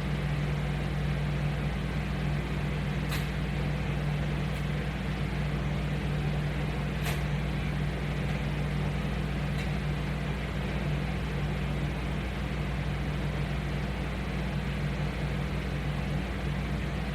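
A steady low hum under an even hiss, with a few faint clicks.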